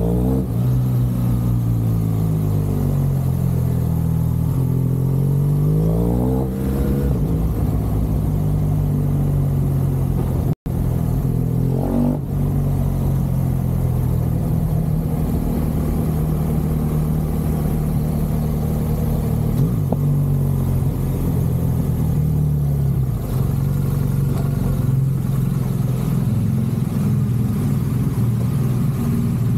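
BMW R1200 GSA's flat-twin boxer engine running on the move, its pitch falling and rising with throttle and gear changes over the first several seconds, then holding steadier. The sound cuts out for an instant about ten seconds in.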